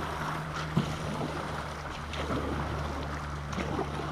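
Steady rushing of river water around a drifting canoe, with wind on the microphone and a low steady hum underneath; a light knock against the hull about a second in.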